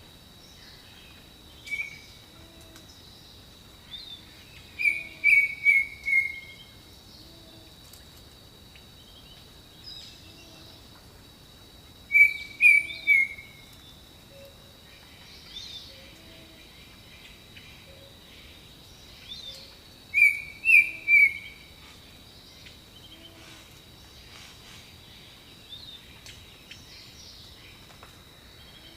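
Jungle bird ambience. One bird repeats a short phrase of about four quick, falling chirps roughly every eight seconds. Underneath are a steady high insect drone, scattered fainter calls of other birds and soft low hooting notes every few seconds.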